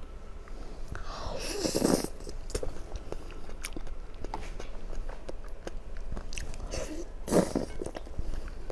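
Close-miked eating: two loud bites, about one and a half seconds in and again near the end, with chewing and small wet clicks in between.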